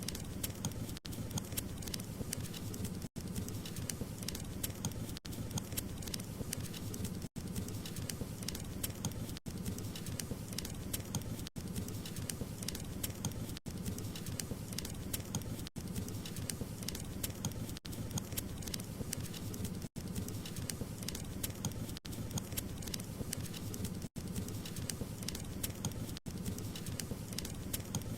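Wood fire crackling, a dense run of small pops and snaps over a low steady rush of burning, broken by brief dropouts about every two seconds.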